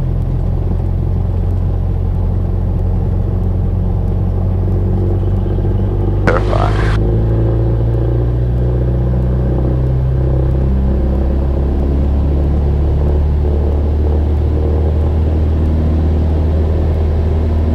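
Cessna 172's single piston engine running steadily, heard from the cockpit, its note shifting a little about ten seconds in. A brief burst of noise cuts across it about six seconds in.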